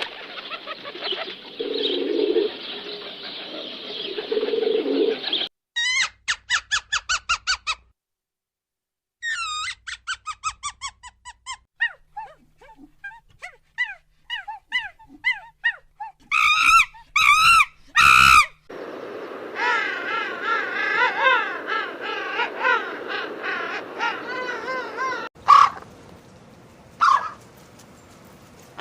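A run of short animal-call clips with abrupt cuts between them, mostly bird calls: rapid trains of short pitched calls, a few loud single calls, and a stretch of many overlapping calls from a flock.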